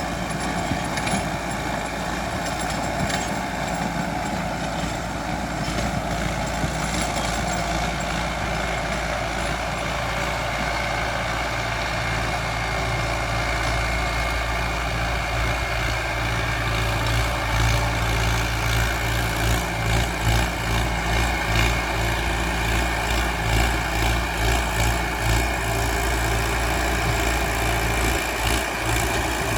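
Mahindra Arjun 605 DI tractor's diesel engine running steadily while driving a rotavator. From about halfway through, a low throbbing swells and fades rhythmically.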